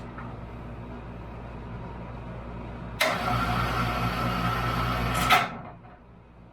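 A machine motor hums steadily, then a much louder whirring starts abruptly about three seconds in, runs for a little over two seconds and stops with a sharp click, fading away.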